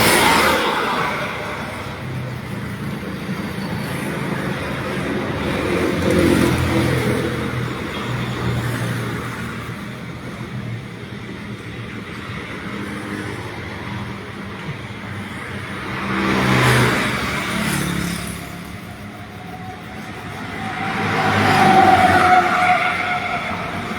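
Road traffic: vehicles passing by one after another, each swelling up and fading away over a couple of seconds, four times, over a steady background of traffic.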